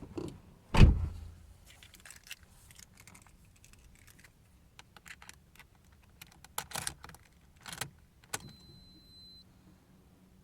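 Car keys jangling and clicking as they are handled, with a heavy thump about a second in. Near the end a steady high electronic beep sounds for about a second.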